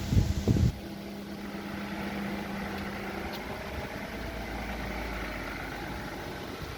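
Wind buffeting the microphone: a burst of loud low rumbling in the first second, then a steadier rumble.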